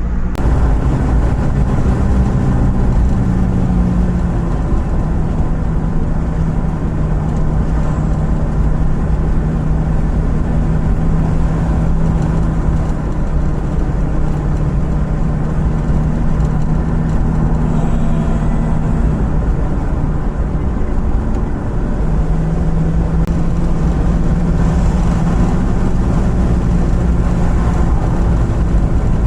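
A car driving along at a steady pace: continuous engine hum and road noise. The engine note drops a little about four seconds in and rises again near the end.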